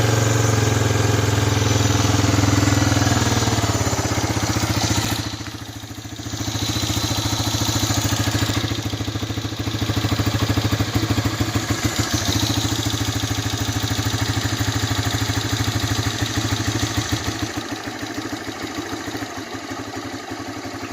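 1985 Honda Big Red 250ES's single-cylinder four-stroke engine running just after a long, hard cold start. About five seconds in it sags sharply, close to dying, then picks back up and runs unevenly with distinct firing pulses, easing off near the end. It is a cold engine that tends to stall unless it has some choke.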